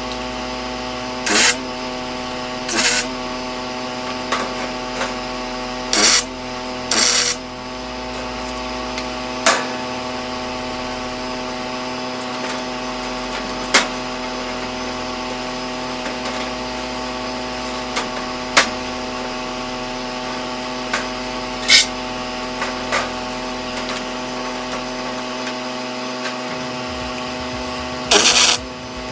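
Handheld power tool motor running steadily, with short louder bursts every few seconds and now and then a sharp tick as it is worked against the edges of 1/8-inch aluminum sheet to knock down burrs.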